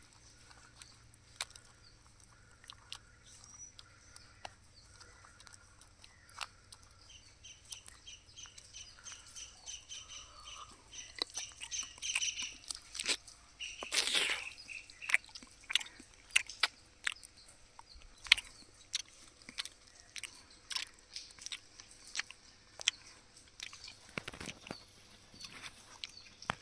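A person eating cooked duck by hand, biting and chewing meat off the bone, in many short crunching clicks with a louder bite about halfway through. Birds chirp faintly in the background through the first half.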